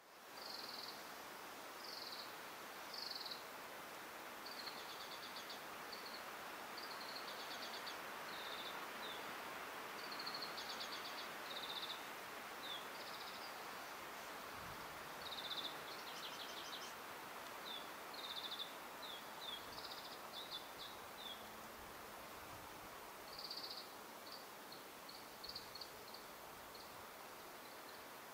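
Small birds singing: short, high chirps and trills repeated every second or so, over a steady outdoor hiss.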